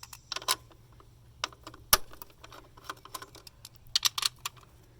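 Hand tools and sockets clinking and clicking against each other and on metal, at irregular intervals, with one sharp knock about two seconds in.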